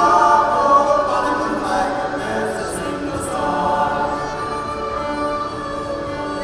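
A choir singing, several voices together.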